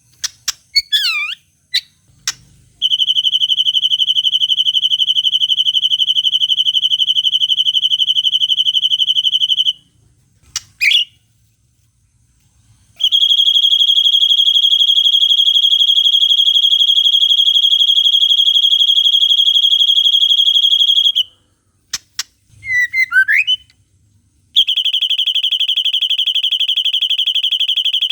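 White-rumped shama (murai batu) singing a long, even, high buzzing trill in the style of the cililin, held for several seconds at a time, three times over. The trills are broken by short swooping whistled phrases.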